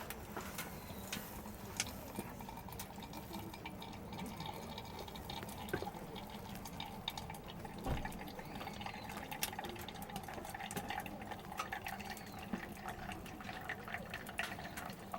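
Steady liquid sound with many small scattered clicks.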